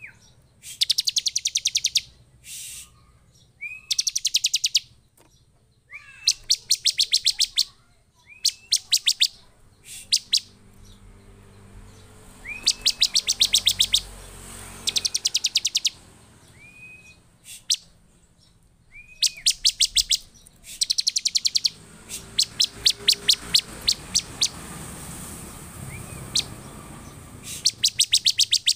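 Bar-winged prinia (ciblek) calling in an agitated, excited way: bursts of rapid, sharp, high chirps, each about a second long and repeated every few seconds, some led by a short rising note.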